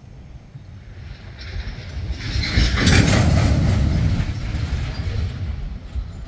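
Loaded Herzog ballast hopper cars rolling past, their steel wheels rumbling and clattering on the rails. The sound swells about two to three seconds in, then eases off slowly.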